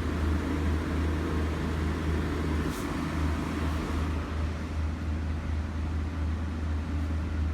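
Diesel train engine idling, a steady low drone, with one short click about three seconds in.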